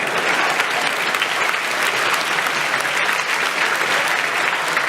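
A large audience clapping steadily, a dense, even applause.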